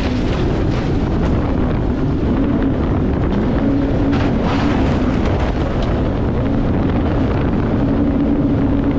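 Boat engine running steadily with a low, wavering hum, under heavy wind noise on the microphone.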